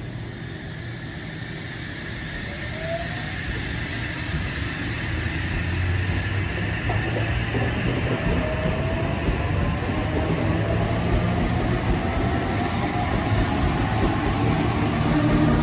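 Double-deck electric multiple-unit train (a NSW TrainLink Oscar H set) moving along the platform, a low hum with faint whining tones that slowly rise in pitch, growing louder. A few sharp ticks come near the end.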